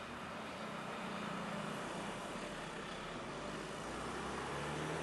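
Steady street noise with a vehicle engine running, a low hum that wavers slightly in pitch.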